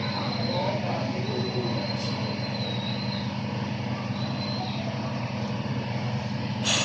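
A steady low engine hum, like a vehicle engine left running, with a faint thin high tone that comes and goes over it.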